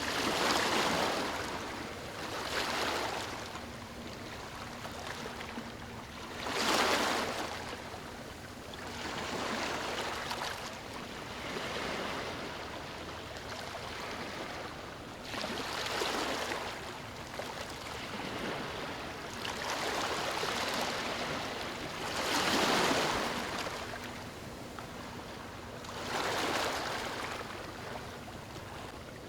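Ocean waves breaking on a beach: a steady wash of surf rising into a louder surge every few seconds as each wave comes in.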